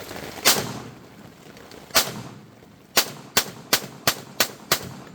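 Pistol fired eight times: two single shots about a second and a half apart, then six quick shots at about three a second.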